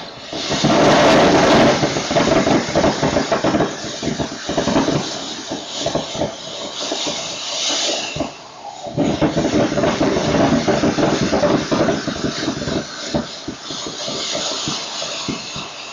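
Cannon Fireworks 'Tropical Fish' firework fountain burning: a loud hiss of spraying sparks with dense crackling. It dips briefly about eight and a half seconds in, picks up again, then dies down near the end.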